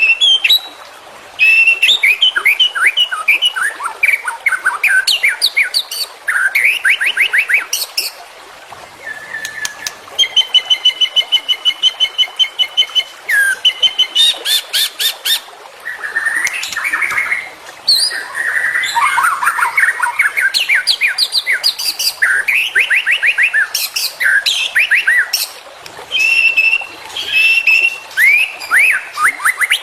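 White-rumped shama (murai batu) singing a long, varied song of clear whistled phrases, fast trills and quick runs of repeated notes, broken by short pauses.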